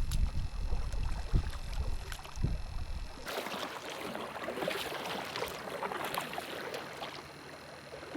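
Canoe paddling: water splashing and dripping around the paddle and hull. For the first three seconds a low wind rumble on the microphone and a few knocks dominate, then the sound switches abruptly to a clearer crackling patter of water.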